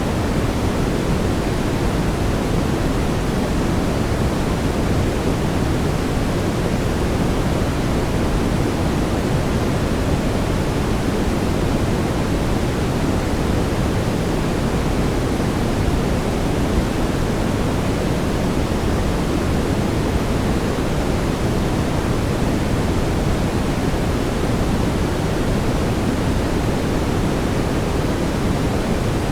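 Steady brown noise: a constant, even rumbling hiss weighted toward the low end.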